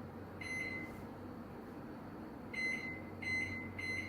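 Keypad of a GE JEI2560SPSS microwave oven beeping as its buttons are pressed: four short, high-pitched beeps, one about half a second in and three in quick succession near the end.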